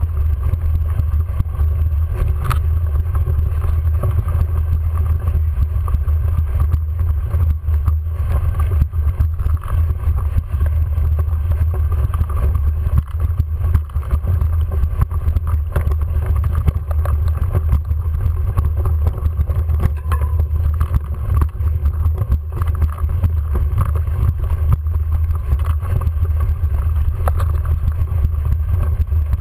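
A bicycle ridden up a steep climb, heard through a camera riding on the bike or rider: a loud, steady low rumble with a faint drone and the odd sharp click or rattle.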